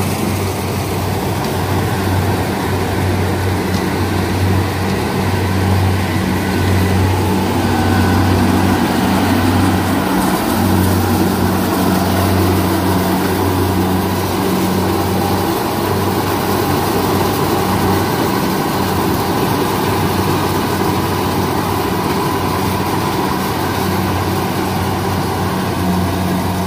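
Kubota combine harvester's diesel engine running steadily under load while harvesting rice, a constant low hum with the dense clatter of the machine's working parts over it.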